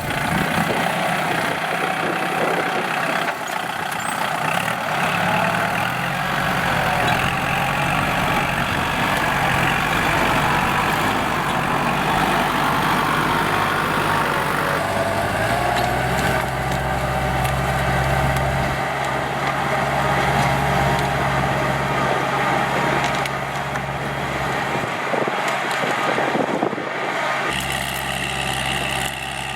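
Kubota L4708SP tractor's diesel engine running steadily while ploughing. Its low engine note shifts and grows stronger about halfway through.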